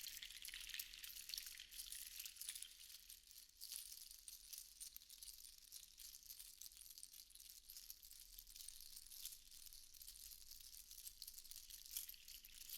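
Seashells rattling and clinking together softly in a continuous stream of fine, high-pitched clicks, easing a little in the middle.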